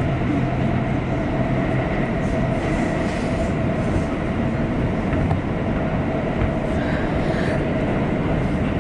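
New York City subway train heard from inside the car while running at speed: a steady rumble of wheels on rails with a constant whine over it.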